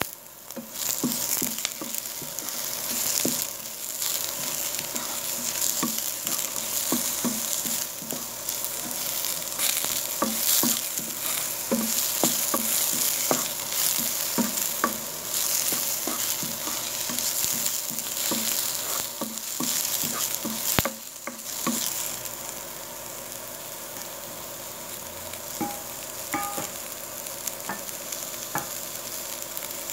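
Chopped garlic and onion sizzling in a little oil in a nonstick wok, with a wooden spoon tapping and scraping the pan as they are stirred. The stirring stops about two-thirds of the way through, and a quieter steady sizzle carries on.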